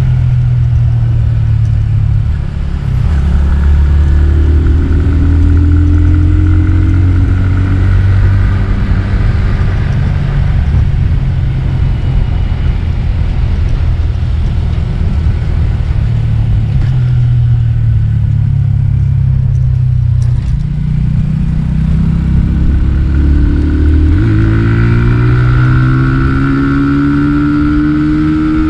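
My150 motorcycle engine running while riding, heard through a GoPro Hero 7 Black microphone with a foam windscreen, with low wind rumble underneath. The engine note shifts with the throttle and climbs in pitch near the end as it accelerates.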